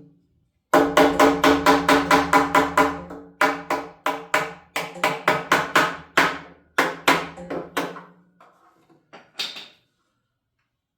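A corded or cordless power tool running in several bursts, with a steady motor hum under a rapid rattle of repeated impacts, like a tool driving fasteners into the wall framing.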